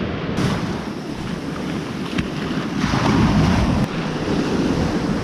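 Ocean surf washing onto the beach, with wind buffeting the microphone; a wave swells louder about three seconds in.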